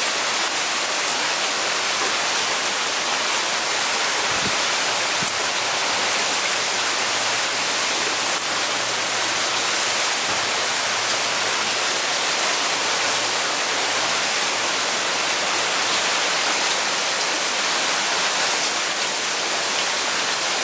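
Heavy rain shower falling steadily, a dense even hiss of rain coming down hard.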